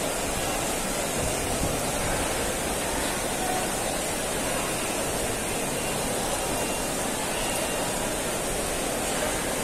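Steady rain falling on a wide open paved courtyard: an even, unbroken hiss.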